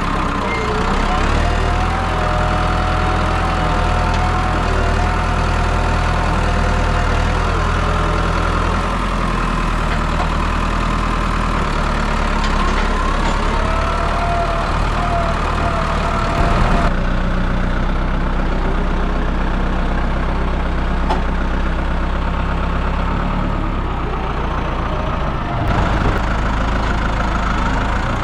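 A farm vehicle's engine running steadily at idle, heard close up. The sound shifts abruptly twice, about two thirds of the way through and again near the end.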